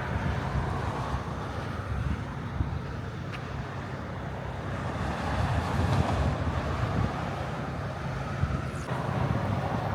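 Gusty wind buffeting the microphone: a steady low rumble with a rushing hiss, rising and falling unevenly.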